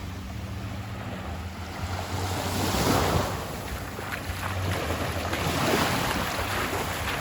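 Small ocean waves washing onto a sandy beach, the surf swelling loudest about three seconds in and again near six seconds, over a steady low hum.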